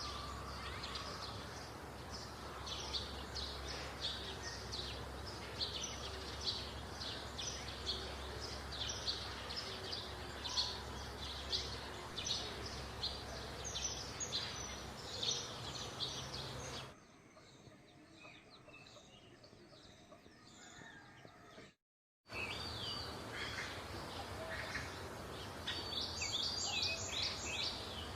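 Small birds chirping rapidly and continuously, many short high calls a second, over a low steady hum. About two-thirds through the sound drops to a quieter stretch and cuts out for a moment, then the chirping returns.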